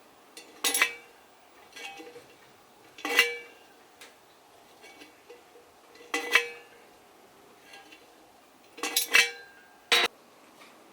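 Metal camping kettle being handled: about six sharp metal clinks with a brief ring, spaced a second or more apart.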